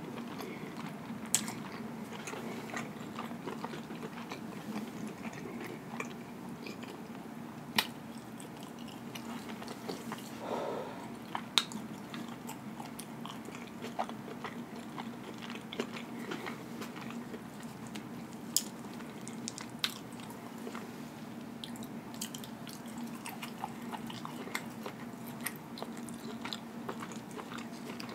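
Close-miked chewing of a mouthful of food: soft wet mouth sounds with scattered sharp clicks and lip smacks, over a faint steady low hum.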